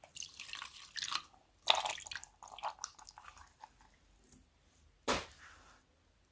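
Slime being squeezed and worked by hand, with wet, sticky squishing and crackling in irregular bursts. Near the end comes a single sharp pop.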